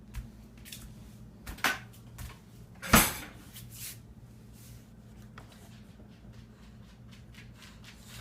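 Kitchen clatter: a few sharp clicks and knocks of dishes being handled, the loudest about three seconds in, over a low steady hum.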